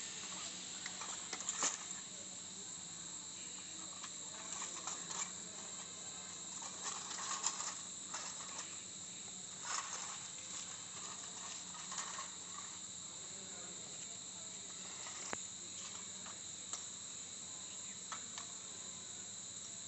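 Steady, high-pitched chirring of insects such as crickets, over a low steady hum, with scattered light scrapes and clicks; a sharp click about fifteen seconds in.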